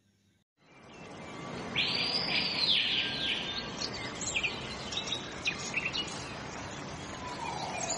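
Outdoor ambience fading in after a brief silence: birds chirping and calling over a steady background hiss, with a quick run of arched calls about two seconds in and scattered short chirps after.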